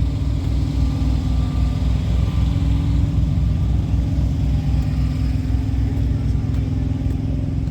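A heavy truck's diesel engine idling steadily, with a low, even throb.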